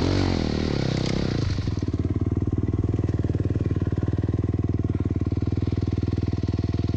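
Dirt bike engine coming off the throttle, its revs falling about a second and a half in, then idling steadily with an even, rapid pulse.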